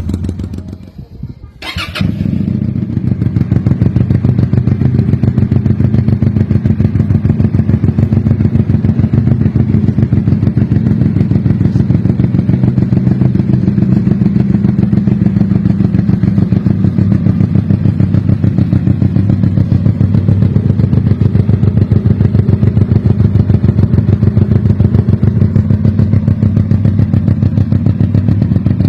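Keeway Benda V252C's 250cc liquid-cooled V-twin running through a custom free-flow exhaust. It falls away just after the start, catches again with a sudden start about two seconds in, then idles steadily with a fast, even exhaust beat to the end.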